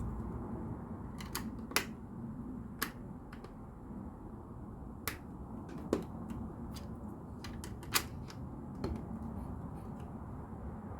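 Plastic LEGO pieces clicking as they are handled and pressed together, with sharp irregular clicks every second or so over a low steady hum.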